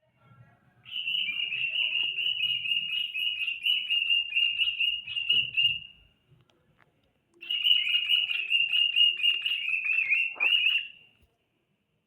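Cockatiel whistling two long, rapidly wavering phrases with a pause of about a second and a half between them.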